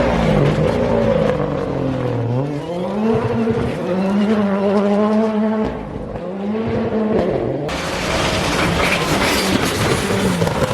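A rally car comes into a hairpin: the engine note drops as it brakes and downshifts, then climbs as it accelerates out, breaking at gear changes about six and seven seconds in. Near the end a loud rushing hiss of tyres and loose stones comes in under the engine.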